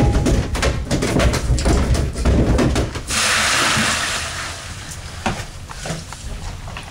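Knocks and handling clatter over a low rumble. About three seconds in the rumble drops away and a hissing rush lasts about a second, followed by a quieter stretch with a few more knocks.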